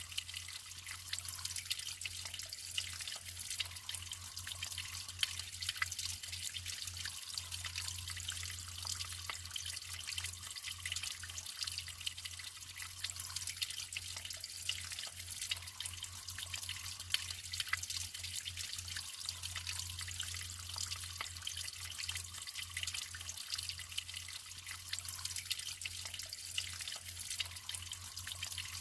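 Natural running water trickling and splashing: a steady hiss full of many small drips, with a low hum underneath.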